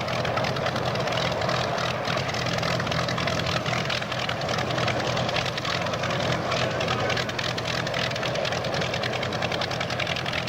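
Piston aircraft engine running steadily at low power, a continuous throb with a rapid even beat.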